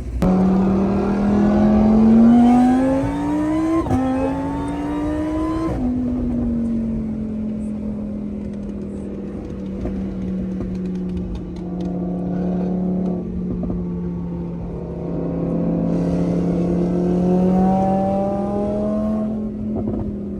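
Car engine accelerating, its pitch rising, with an upshift about four seconds in. It keeps pulling, lifts off near six seconds, then cruises at a steady engine speed, rising a little again near the end.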